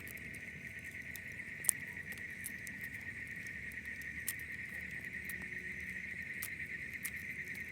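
Night insects trilling steadily at a high pitch, with scattered sharp clicks and one louder snap a couple of seconds in.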